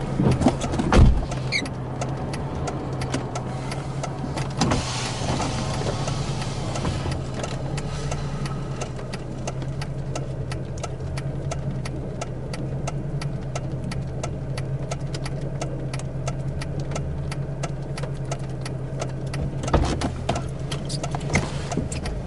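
Car engine idling with a steady low hum, with many small ticks and taps over it and a couple of louder knocks, about a second in and near the end.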